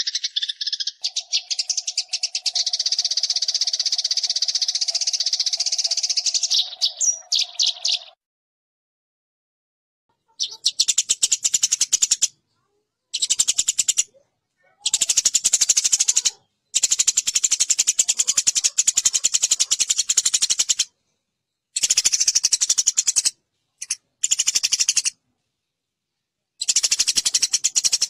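Eurasian tree sparrows chattering fast and harshly in a fight, a dense run of rapid chirps. After about eight seconds it drops out completely. It then returns in a series of bursts that start and stop abruptly.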